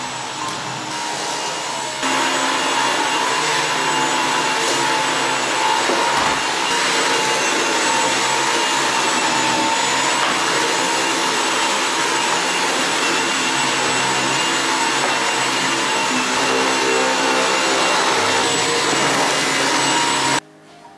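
Vacuum cleaner running steadily with a faint whine. It gets louder about two seconds in and cuts off suddenly just before the end.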